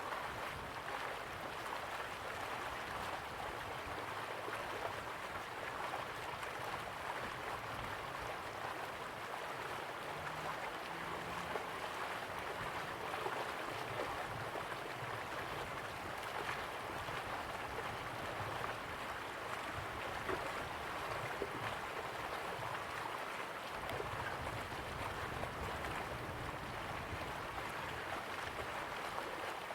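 Slow-flowing river water, a steady even rush with a fine trickling crackle and no breaks.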